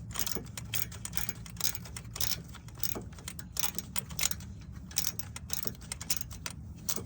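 Hand tools working on engine-bay bolts: a ratchet wrench clicking in short, irregular runs, with metallic clinks, over a steady low hum.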